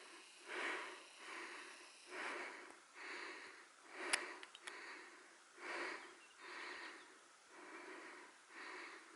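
A climber's heavy breathing close to the microphone, in rhythmic breaths about one a second, with a single sharp click about four seconds in.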